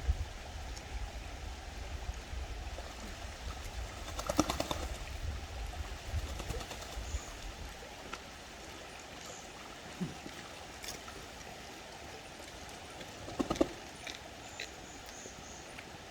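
Eastern spot-billed duck bathing in a stream, splashing and beating its wings in two bursts, about four seconds in and again near the end, over the steady rush of flowing water. Small birds chirp briefly now and then.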